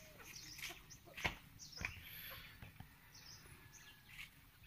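Faint bird chirps, with a few short knocks, the sharpest about a second in.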